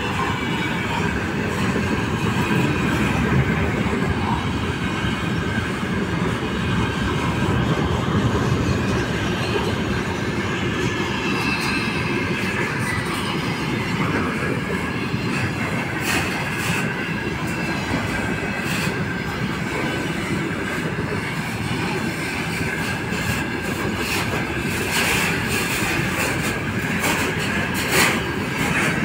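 Container train's loaded flat wagons rolling past: a steady rumble of steel wheels on rail, with scattered sharp clicks.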